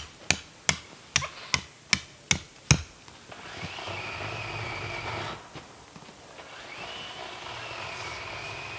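Sharp hammer blows in a steady rhythm, about eight of them at a little over two a second. Then a cordless drill runs twice for a couple of seconds each time, its whine rising as it spins up.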